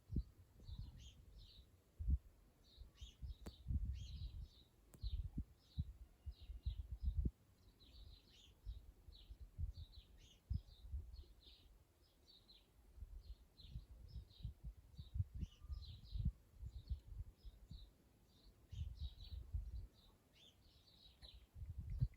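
Small birds chirping continuously in the background, over irregular low thuds and rumbles.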